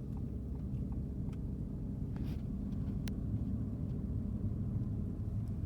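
Steady low road and engine rumble of a Ford car, heard from inside the cabin while driving, with a single sharp click about three seconds in.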